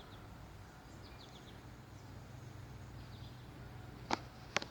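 Little woodpeckers calling in short, quick runs of high chirps, three times, over a faint outdoor hush; two sharp knocks sound close together near the end.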